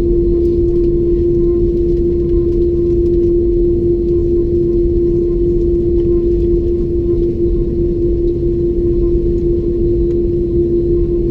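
Airbus A330-200's jet engines heard from inside the passenger cabin: a loud, constant rumble with one steady hum on top.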